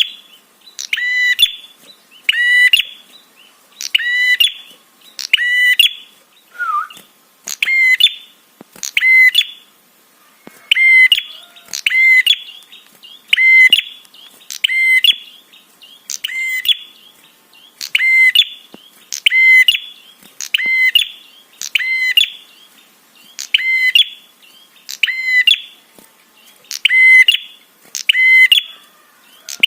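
Prenjak (prinia) giving its repeated 'trapi' call as a lure call: a loud, sharp call about once a second, over and over.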